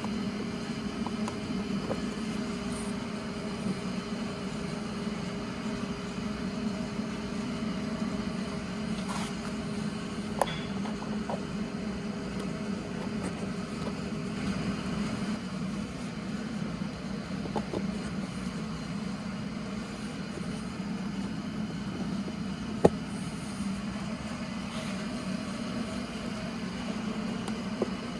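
Honda CB1300SF's inline-four engine idling steadily, with a few sharp clicks, the loudest about two thirds of the way through.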